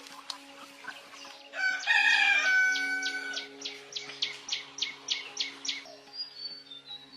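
A rooster crowing once, about a second and a half in, followed by a run of short high chirps at about three a second.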